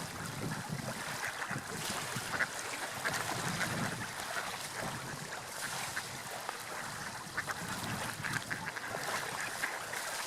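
Gulls calling in short, scattered cries over a steady wash of sea waves and wind.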